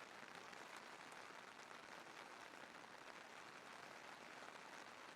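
Faint, steady rain: an even soft hiss with fine patter of drops.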